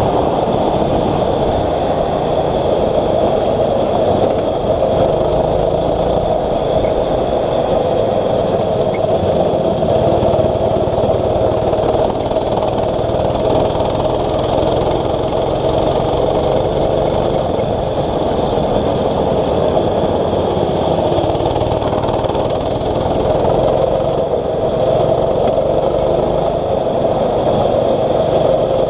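6.5 HP single-cylinder four-stroke kart engine running steadily at an even, moderate speed, with no hard revving.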